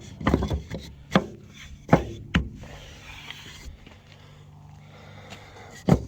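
Wooden top bars being laid into a wooden top bar beehive, knocking and rubbing against each other and the hive body. Several sharp wooden clacks come in the first two and a half seconds, then a quieter stretch of light rubbing, and one more knock near the end.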